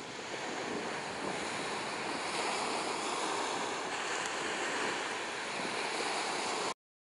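Steady rushing of wind on the microphone mixed with waves washing on the shore, cutting off abruptly near the end.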